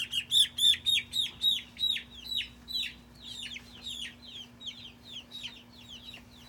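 Young chickens peeping: a rapid run of high, downward-sliding peeps, about three to four a second, loud for the first three seconds and then fainter and more scattered.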